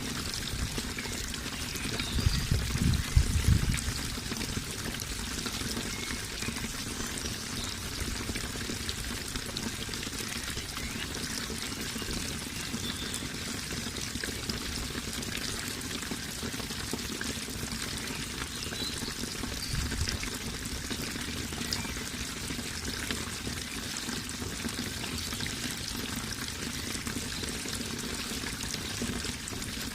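Steady flowing water, a continuous splashing trickle. There are brief low thuds about two to four seconds in and again about twenty seconds in.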